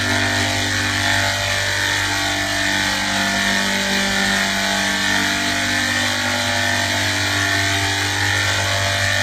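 A steady mechanical drone: a constant, unchanging hum with several pitched tones over a broad hiss.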